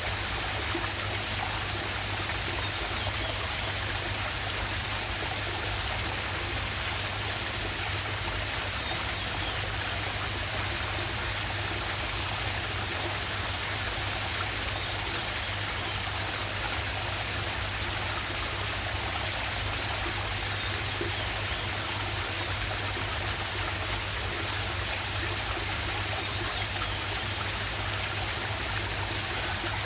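Waterfall and stream water rushing steadily, an even, unbroken hiss of falling and flowing water.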